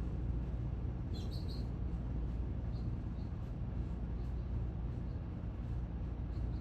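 A small bird chirps a few times in quick succession about a second in, then gives fainter single chirps now and then, over a steady low outdoor rumble.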